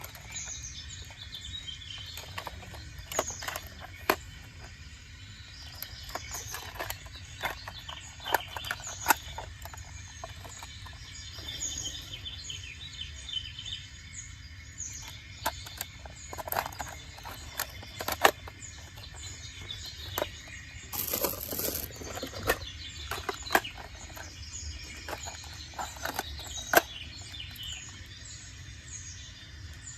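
Small birds chirping over a steady low background, with frequent sharp clicks and knocks scattered through.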